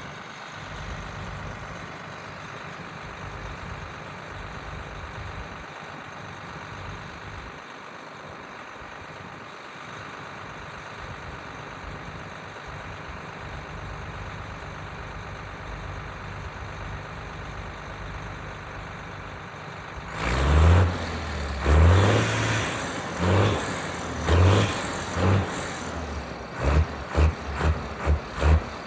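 John Deere 8450 tractor's six-cylinder diesel engine running steadily while the tractor is driven back and forth. From about 20 seconds in, a series of loud, irregular low thumps comes over the engine sound.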